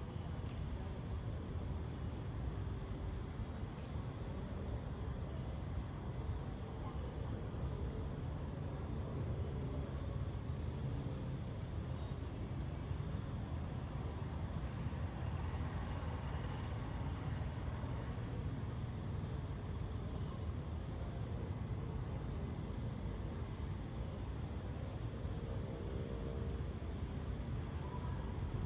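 Crickets trilling in a fast, steady pulse, with a brief break about three seconds in, over a constant low rumble.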